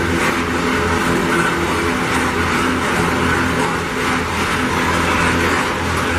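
Loaded iron-ore gondola wagons rolling past on the track: a steady loud rumble of steel wheels on rail, with low humming tones running through it.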